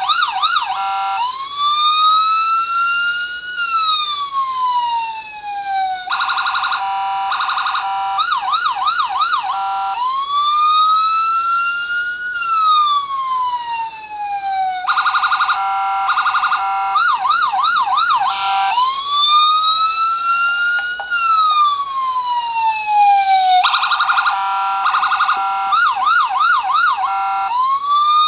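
Electronic police siren from a circuit board, stepping through its tones in a repeating cycle: a slow wail that rises and then falls over about five seconds, a short stepped hi-lo burst, then a quick warbling yelp. The cycle runs about three times.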